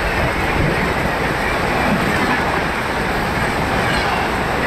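Passenger train coaches rolling past close by at speed: a steady, loud rush of wheels on rail and passing air.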